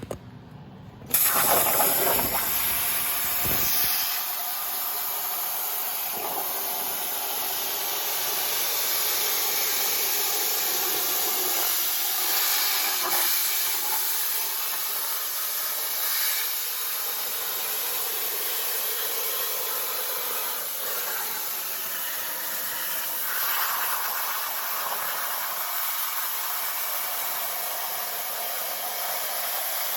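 Plasma cutter cutting aluminum: a steady, loud hiss of the arc and air jet that starts suddenly about a second in.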